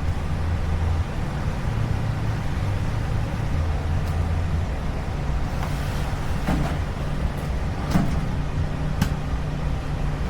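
Portable generator engine running steadily with a low drone, with a few sharp clicks or knocks in the second half.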